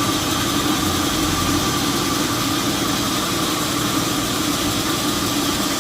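Sawmill machinery running steadily with a constant hum, not cutting.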